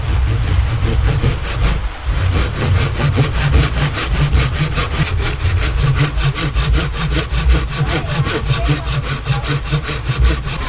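Hand saw cutting through wood in quick, even back-and-forth strokes, with a short pause about two seconds in.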